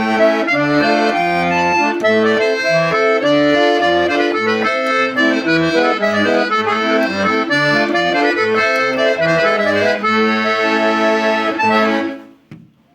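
Hohner Concerto 1 accordion playing a tune: a melody over a bass that alternates with chords about twice a second. It closes on a held chord that stops about twelve seconds in.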